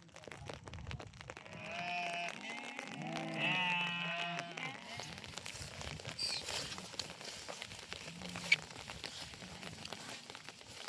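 A sheep bleating twice a couple of seconds in, the second call longer, followed by faint scattered clicks and one sharp click about eight seconds in.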